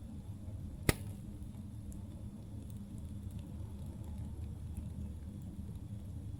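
Campfire burning, with faint scattered crackles over a steady low rumble and one sharp, loud pop about a second in.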